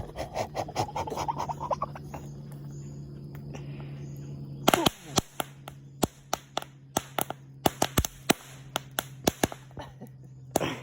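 A string of firecrackers going off: a rapid, irregular run of sharp bangs and pops starting about halfway through and lasting some six seconds, the first bang the loudest.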